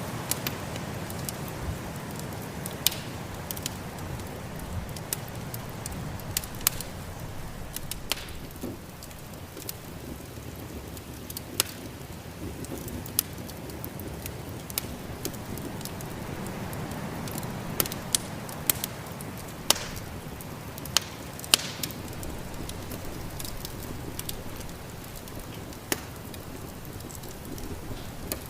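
Wood fire crackling, with sharp, irregular pops and snaps over a steady rushing noise of snowstorm wind.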